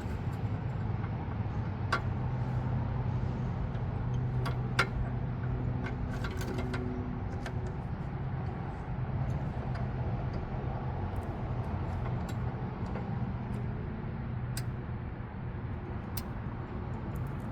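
Hand tools clinking on metal, a socket and wrench used on the car, giving scattered sharp clicks over a steady low hum.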